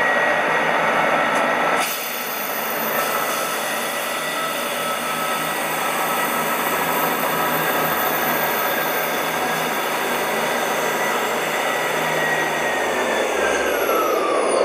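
A train running through the station: a steady, noisy rumble with several whining tones. About two seconds in, a very high whine starts. Near the end, a tone glides down in pitch.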